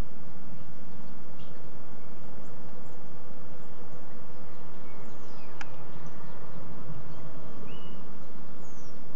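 Garden birds chirping, short scattered calls and whistles, over a steady low background rumble, with one sharp click a little past halfway.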